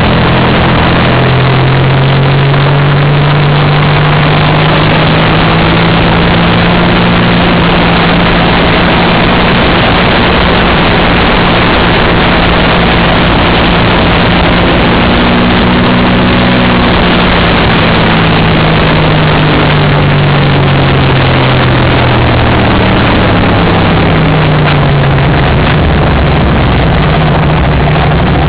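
Racing motorcycle engine running hard on track, heard from a camera mounted on the bike, with heavy wind rush over the microphone. The engine note climbs over the first couple of seconds, holds high, then sinks slowly and picks up again a few seconds before the end.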